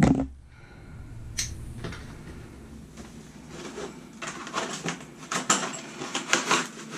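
A knock, then the rustling and crinkling of a product package being handled and opened, with quick crackles building up in the last few seconds.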